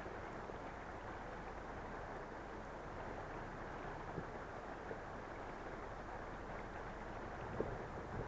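Off-road 4x4 engine running steadily at low speed, with a few faint knocks.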